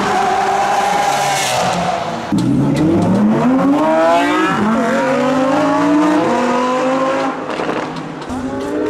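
Lamborghini supercar engines at full throttle, the revs climbing and dropping back again and again as the cars shift up through the gears. A car passes close by.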